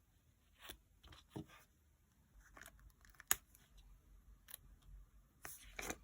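Desk sounds of decorating a paper journal: soft paper rustles and light clicks and taps, with one sharper click about three seconds in.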